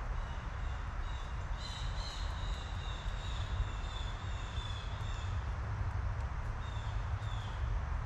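Wild birds calling: a run of repeated high calls from about one and a half to five seconds in, then a couple of short calls near the end, over a steady low rumble.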